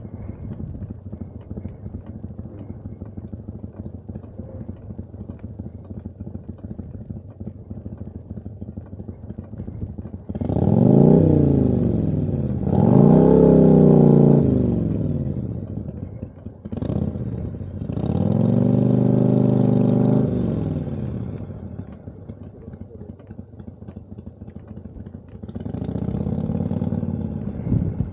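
Motorcycle engine idling steadily for about ten seconds, then pulling away hard, its pitch climbing and dropping back with each gear change, and rising again twice more later.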